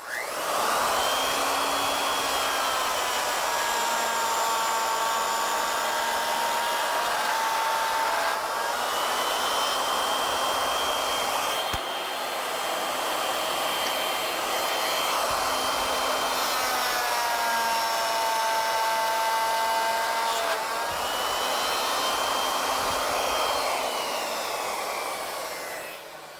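Plunge router with a dovetail bit starting up and running while it cuts a dovetail slot in wood in a single pass. Its high whine sags in pitch under load a few times and recovers, and it is switched off and winds down near the end.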